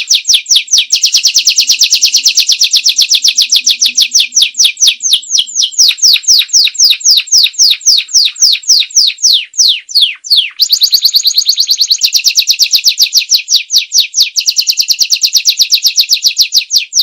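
Domestic canary singing loudly in rapid trills of quick, high, downward-sweeping notes repeated many times a second. The trill slows in the middle, a single long falling note comes about ten seconds in, and then a fast, dense trill follows.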